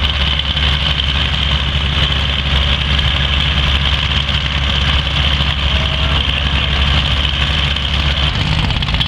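Cockshutt 570 tractor's engine running steadily at an even, low speed.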